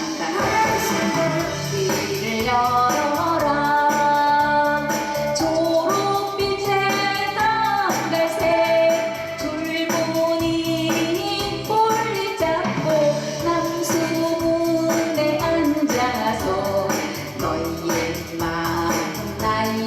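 A woman singing a Korean trot song live over a backing track with a steady beat.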